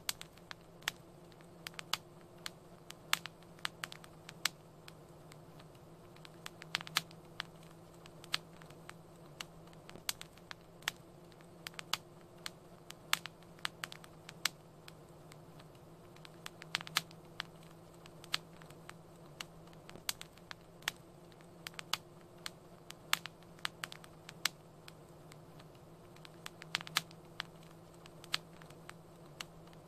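Fire in a fireplace crackling: irregular sharp pops and snaps, a few a second, over a soft steady low hum.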